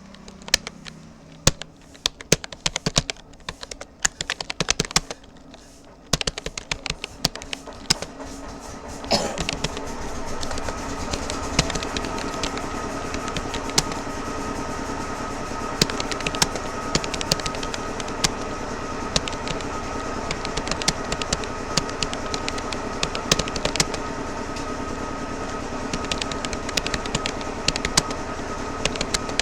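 Touch-typing on a Rapoo computer keyboard: rapid, irregular key clicks with occasional louder keystrokes. About nine seconds in, a steady background hum with a few held tones joins the typing and carries on under it.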